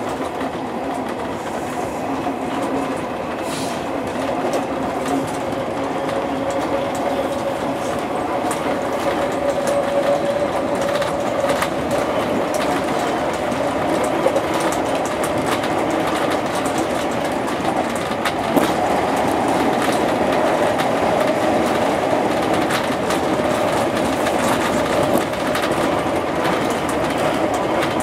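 JR East 201 series electric commuter train running on the line, heard from the driver's cab: a steady rumble with a faint hum and repeated wheel clicks over the rails, growing slightly louder over the course of the run.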